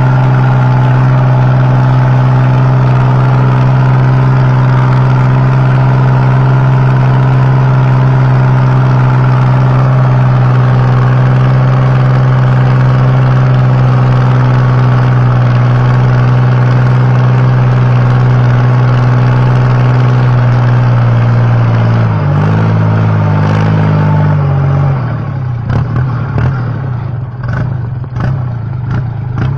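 Kubota farm tractor's diesel engine, fitted with a new loud stainless-steel exhaust pipe, running at steady high revs. About 22 seconds in the revs drop, and in the last few seconds the sound turns uneven, with knocks and clatter.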